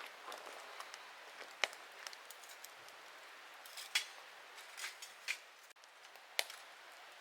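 Scattered sharp clicks and crackles at irregular intervals over a faint steady hiss.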